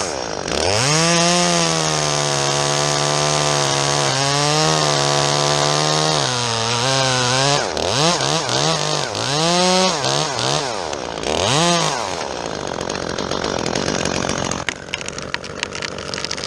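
Chainsaw held at high revs while cutting fir wood, its chain dull. The pitch dips briefly, then the saw is revved down and up several times. Near the end comes a run of sharp crackles.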